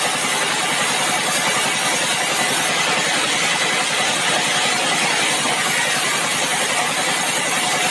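Sawmill machinery running steadily, a constant dense mechanical noise with no pauses.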